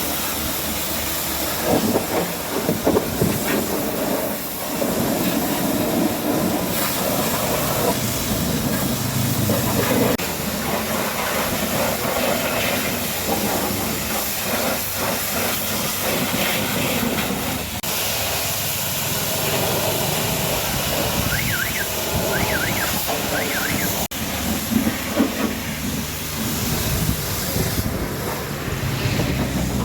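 Pressure washer jet spraying water onto a truck, a steady spray whose tone shifts as the jet moves over different parts of the body.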